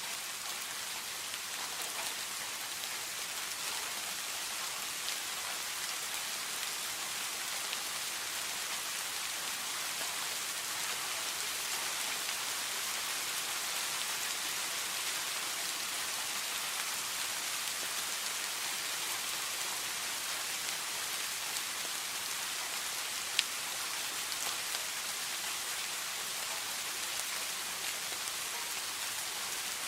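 Steady rain falling on a surface, an even hiss with many small drop ticks and one sharper drop about 23 seconds in.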